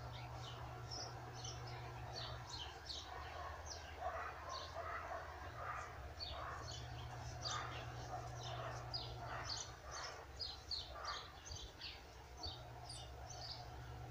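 Small birds chirping: many short, high calls coming one after another, over a low steady hum.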